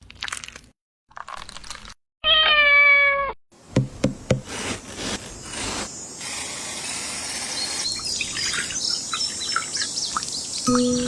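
A cat meows once, a single call of about a second with a slightly falling pitch, about two seconds in. Around it come short cut-up snippets of clatter, then clicks and knocks over a steady hiss.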